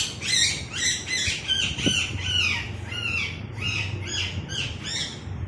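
Baby green parrot calling in a quick run of short, high chirps, each dropping in pitch, about three a second.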